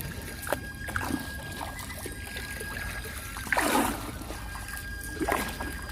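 Oar or paddle strokes swishing and splashing in pond water as a small rowboat moves along, the loudest stroke a little past halfway and another near the end.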